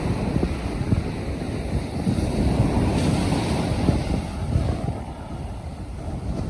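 Wind buffeting the microphone in uneven gusts over the wash of surf on the beach, easing a little near the end.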